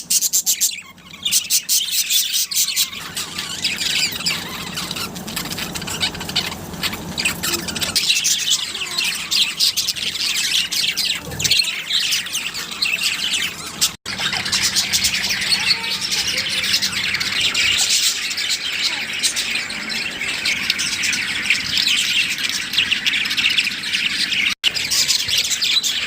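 A group of small pet parrots chirping and squawking in a continuous, dense chatter, with the sound dropping out for an instant twice.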